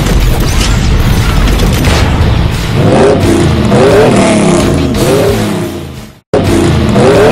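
Car engine sound effect: a rushing whoosh, then an engine revving up again and again in quick rising sweeps. It cuts out suddenly for a moment about six seconds in, then revs again.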